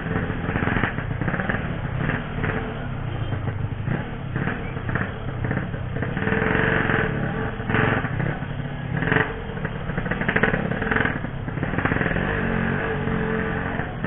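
Two-stroke 135cc Yamaha RX-King motorcycle engine running on the move, its loudness rising and falling.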